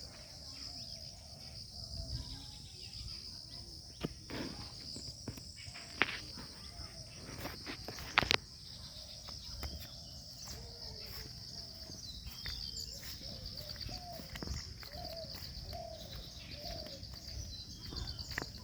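Outdoor garden ambience dominated by a steady, pulsing high-pitched insect trill. A few sharp clicks stand out in the first half, and faint wavering calls come in during the second half.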